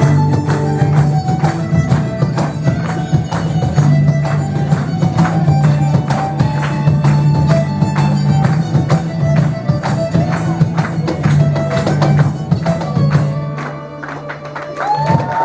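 Live folk band playing a Celtic dance tune: a steady low drone under a melody line, with quick, dense percussion strokes. The tune ends near the end, the drone cutting off.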